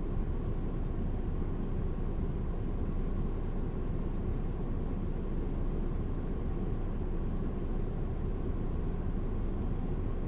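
Steady low rumble and hiss inside a car, with a faint constant high whine over it.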